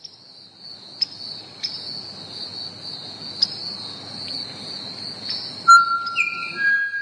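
Steady high-pitched insect chorus, like crickets, with a few sharp clicks. Near the end, several held steady tones come in over it.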